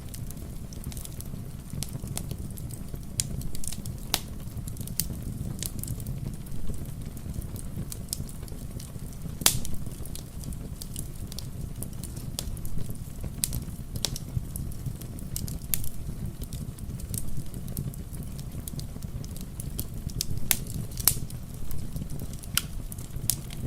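Wood fire crackling, with irregular sharp pops and snaps, a few louder ones about nine seconds in and again near the end, over a steady low rumble.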